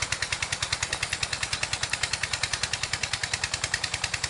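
Small engine idling with a fast, even pulsing beat.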